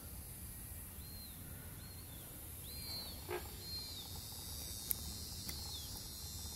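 A bird calling with short, high, arched chirps, repeated roughly once a second over a faint steady background hiss and hum, with a couple of soft ticks midway.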